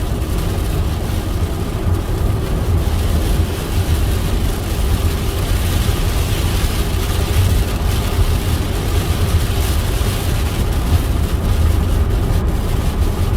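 Steady road and engine rumble of a car driving, heard from inside the cabin, with a steady hiss of heavy rain on the car.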